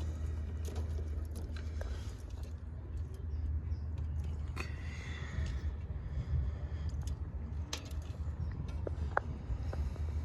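Scattered small clicks and short rattles of handling over a steady low hum.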